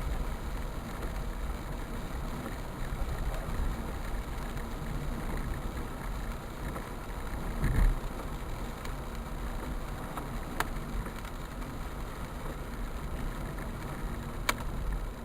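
A steady low rumbling noise with a low thump about eight seconds in and two sharp clicks later on.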